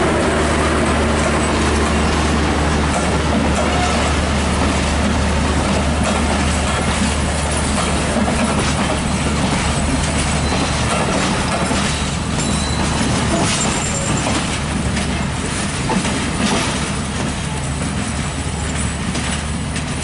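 Passenger train coaches rolling past on the track: a steady rumble, with wheels clicking over the rail joints from about eight seconds in, slowly fading as the train draws away.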